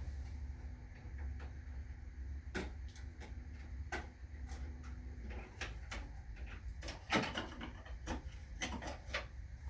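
Scattered light clicks and knocks of objects being handled, with a denser run of them about seven to nine seconds in, over a steady low rumble.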